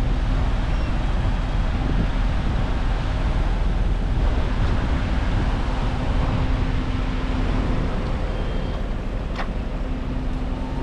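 Vehicle engines running steadily close by: a low rumble with a steady engine hum.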